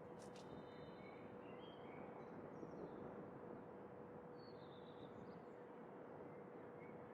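Faint bird chirps and short calls scattered over a steady low hiss of outdoor background noise, with a faint steady hum underneath and a brief tick near the start.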